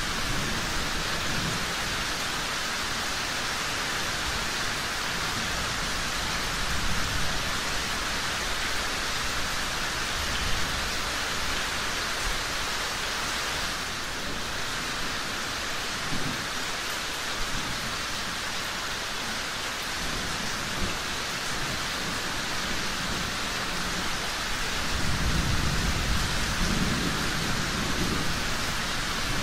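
Steady rain falling, with low rolls of thunder, the longest rumble near the end.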